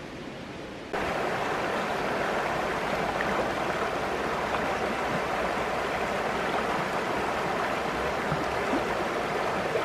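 Creek water flowing over rocks: a steady rushing that jumps louder about a second in.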